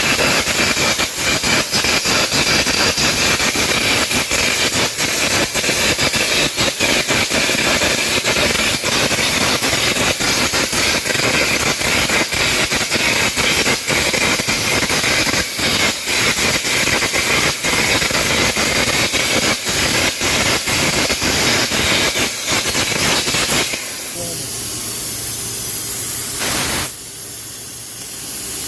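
Air carbon arc gouging: the arc crackles and pops inside a loud, steady hiss as the compressed-air jet blows molten metal out of the gouge. The arc cuts off about three-quarters of the way through, leaving a fainter hiss and a low hum.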